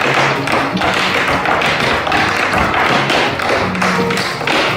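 Tap dancing: metal taps on shoes striking a hard floor in a quick, dense rhythm.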